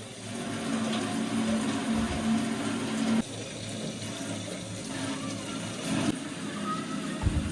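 Water running, loudest for about the first three seconds, then dropping suddenly to a weaker flow, with a couple of short knocks near the end.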